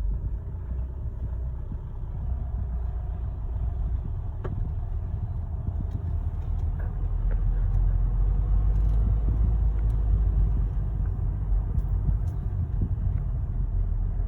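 Garbage truck engine running with a low rumble that grows louder through the middle, with a few light knocks, as the truck's arm picks up and empties a wheelie bin.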